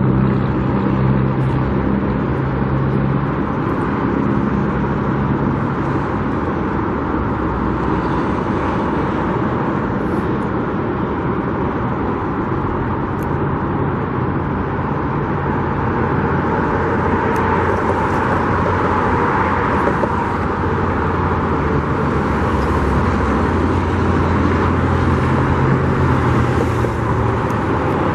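Steady road traffic: cars and trucks driving past, with a low engine hum that swells in the first few seconds and again near the end.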